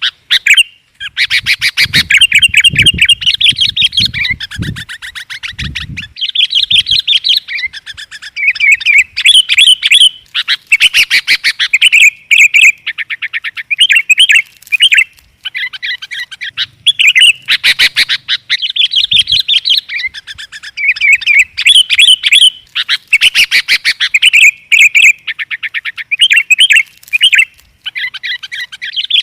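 Sooty-headed bulbul (kutilang) calling and chattering almost without pause: quick, bubbly phrases that break off briefly and start again, as used to lure or prompt other kutilang to sing.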